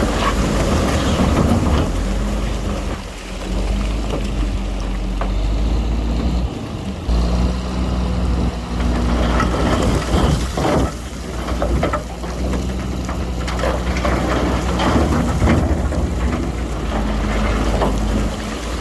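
Heavy diesel earthmoving machinery running steadily with a low rumble, with scattered short crackles and clatters over it, densest about halfway through.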